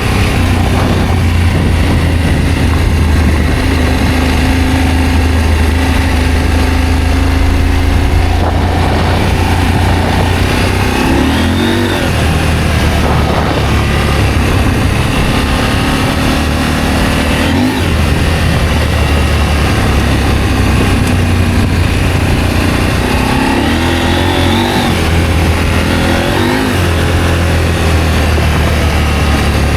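Adventure motorcycle engine running under way, with a steady low drone whose pitch rises and falls several times as the throttle opens and closes, over a constant rush of noise.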